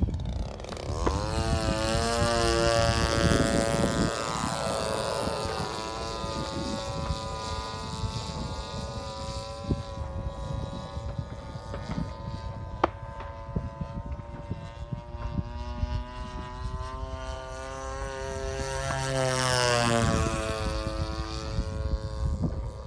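Sig Rascal 110 radio-controlled model airplane flying, its engine and propeller droning steadily. It swells twice as it passes close, near the start and again near the end, the pitch dropping as it goes by.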